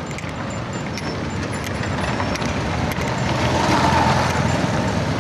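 A vehicle driving on a rough dirt road: steady engine and road noise with light rattling, swelling louder about three to four seconds in.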